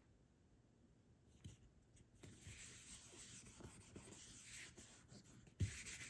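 Glue stick rubbed across paper: a faint scratchy swiping that starts about two seconds in and runs for about three seconds, ending with a light knock near the end.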